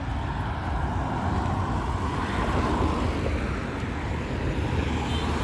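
Road traffic passing, a steady wash of tyre and engine noise, with a vehicle swelling past about two to three seconds in.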